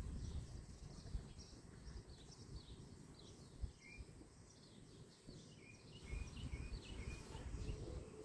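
Birds chirping faintly in runs of short, quick notes over a low background rumble.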